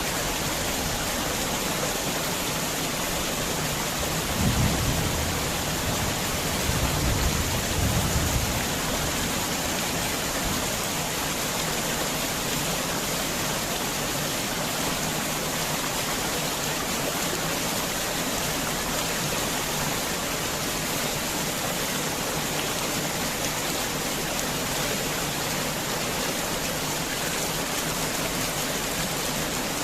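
Heavy rain falling steadily, with thunder rumbling low twice, a short rumble about four seconds in and a longer one around seven to eight seconds.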